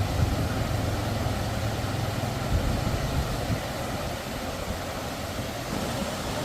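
A vehicle's engine running with road noise: a steady low hum that eases off about three and a half seconds in.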